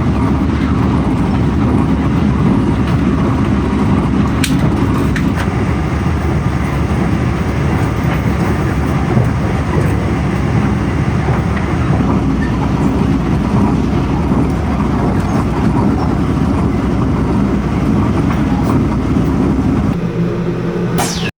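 Taroko Express tilting train running: a steady low rumble of wheels and rail noise.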